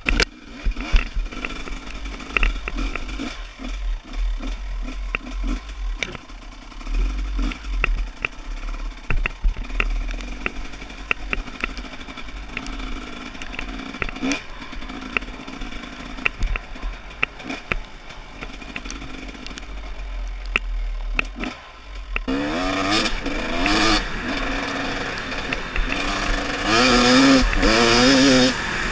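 Trail motorcycle engine running at low revs with scattered clicks and knocks and low rumble on the microphone; about 22 s in the engine gets louder and revs up and down repeatedly, loudest near the end.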